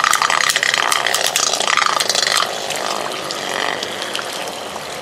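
Two Beyblade spinning tops battling: rapid clattering collisions over a steady whirring whine. About two and a half seconds in the clashing stops and the level drops, leaving a quieter whirr of the tops still spinning.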